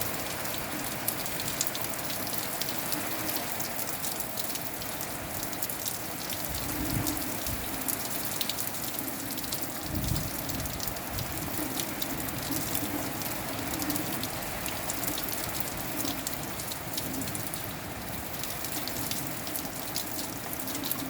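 Steady rain falling, with many separate drops ticking sharply on a nearby surface. Low gusts of wind rise briefly about a third of the way in and again near the middle.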